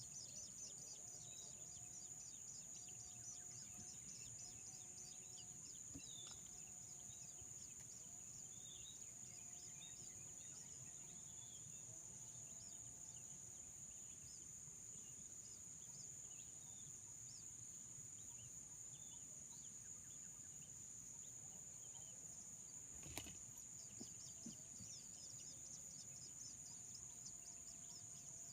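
Faint outdoor ambience: a steady high-pitched insect drone, with faint scattered bird chirps and a low repeated call. A single soft click comes near the end.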